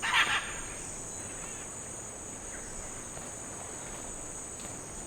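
Forest ambience dominated by insects buzzing in a steady high-pitched drone, with a brief louder sound right at the start.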